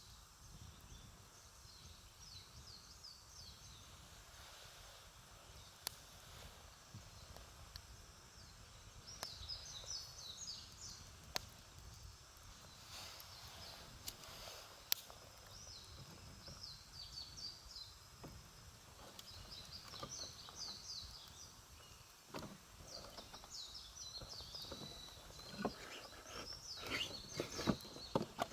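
Wood campfire crackling faintly, with scattered sharp pops that come more often near the end. Small birds sing short, repeated chirping phrases over it.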